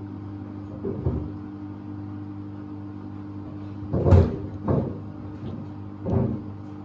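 Samsung WD70T4047CE washer-dryer running with a steady motor hum, while the sneakers in its drum thud against the drum at irregular intervals. The loudest thud comes about four seconds in.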